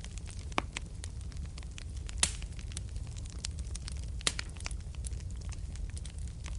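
Wood fire burning in a fireplace: a steady low rumble of the flames under constant small crackles, with two louder pops, about two seconds and four seconds in.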